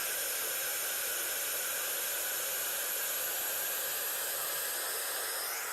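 Steady white-noise hiss from a noise generator, even and unbroken, with most of its energy in the upper range.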